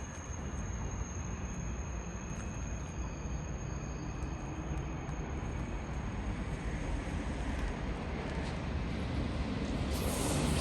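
Train approaching on the line, a steady rumble that grows gradually louder toward the end.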